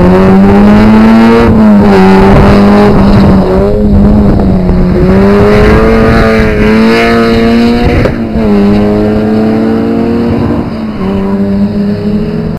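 Track car's engine running at high revs, its note holding and sliding up and down in pitch, with brief dips about a second and a half, four and eight seconds in.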